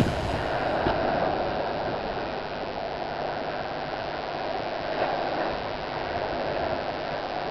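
A steady rushing noise with no rhythm or pitch and no music, between two music tracks.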